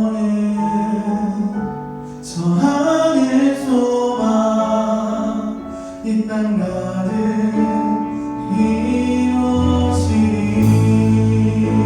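Live church praise band playing a worship song with singing, sustained chords throughout. Two crashes, about two seconds in and again near ten seconds, and a deep bass comes in strongly near the end.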